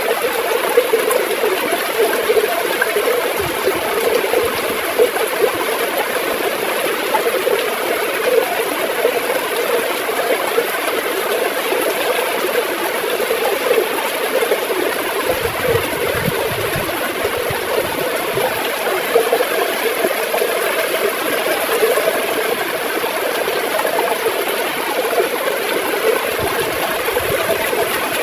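River water flowing and gurgling steadily, a continuous bubbling rush with no breaks.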